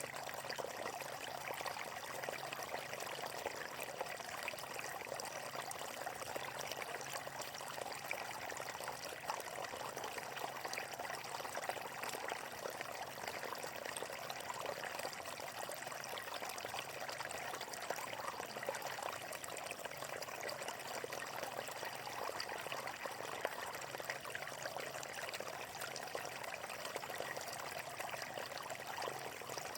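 Water running steadily over rocks: a continuous, even rush of flowing water with no change across the stretch.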